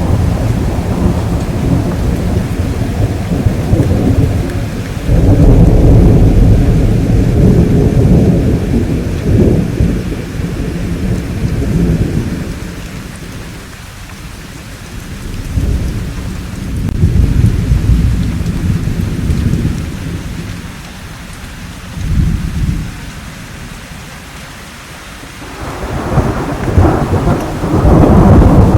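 Rolling thunder over steady rain. Deep rumbles swell and fade several times, with quieter stretches of rain alone in between and a fresh rumble building near the end.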